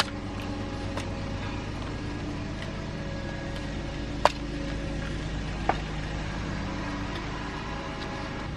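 Two sharp plastic clicks, about a second and a half apart, as clip-on sauce holders are fitted in a car interior, over a steady low hum.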